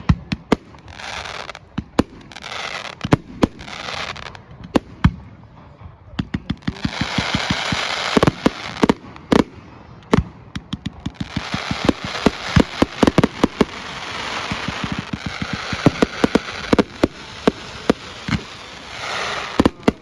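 Fireworks display: repeated sharp bangs of bursting shells, with rapid strings of cracks and a hissing crackle. These are busiest in the second half.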